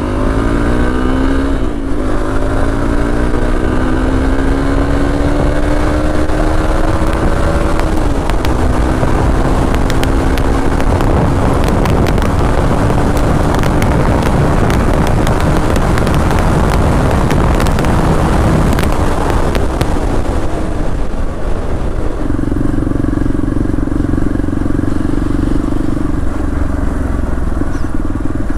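Hero Xpulse 200's single-cylinder engine through an aftermarket Akrapovic exhaust, pulling away and accelerating through the gears. Its note climbs and drops back at each of several gear changes, then holds a steadier pitch near the end.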